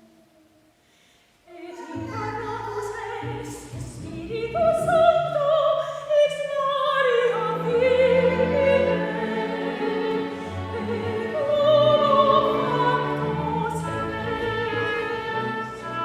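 Classical sacred music for voice and chamber orchestra. After a second or so of near silence, the orchestra comes in, and a trained operatic voice sings over it with a wide vibrato.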